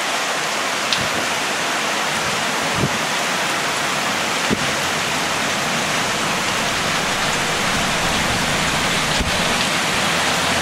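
Heavy rain pouring steadily: a dense, even hiss, with a few faint short knocks through it.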